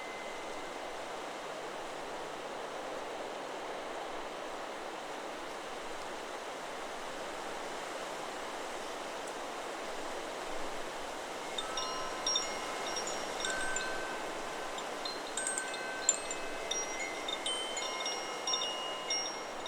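Steady wind in the trees, and near the middle the Chakra Chimes 'Solar Plexus' wind chime starts to ring. It is struck irregularly by the wind, and several clear overlapping tones ring on through the second half.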